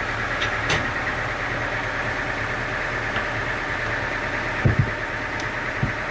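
Sawmill engine running steadily, with a few short knocks about three-quarters of the way through.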